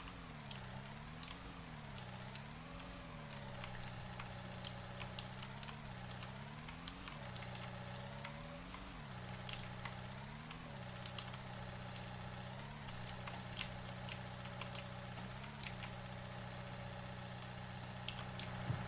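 Case skid steer's diesel engine running, its pitch rising and falling several times in the first ten seconds as the machine is driven, then holding steady, with many sharp clicks and rattles.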